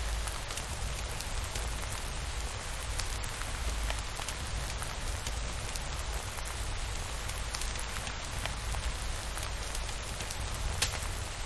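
Steady rain falling on a surface, a dense even patter with scattered sharp drop ticks and a low rumble underneath.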